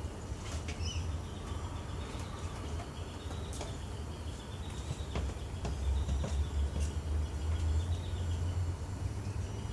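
LG TurboDrum washing machine running mid-cycle with a bedding load: a low motor hum that swells and fades, a thin high whine that slowly rises and falls, and a few light knocks.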